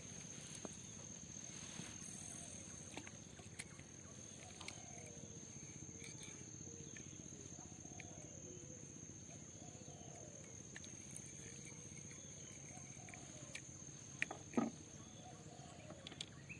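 Quiet outdoor ambience dominated by an insect's steady high-pitched drone, with faint wavering calls in the background and a few light clicks, the sharpest about 14 and a half seconds in.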